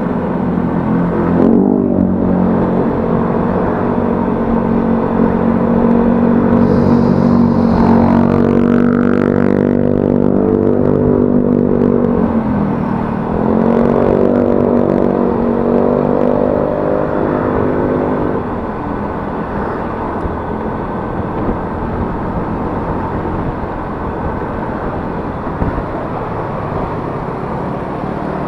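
Yamaha Mio S automatic scooter's single-cylinder engine, heard from the rider's seat while riding. The throttle eases off briefly near the start and again about halfway through, and the engine rises in pitch in between. In the last third the engine sound falls away and steady wind and road noise remain, as when coasting.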